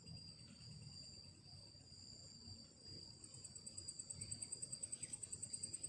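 Night insects such as crickets trilling faintly: a steady high whine throughout, joined about three seconds in by a higher, fast pulsing chirp of roughly ten pulses a second that grows louder.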